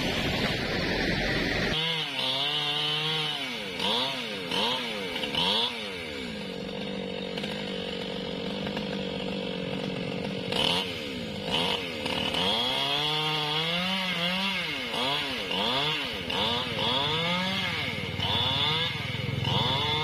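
Newwest 628 two-stroke chainsaw running while cutting angsana wood, its engine revving up in short bursts several times.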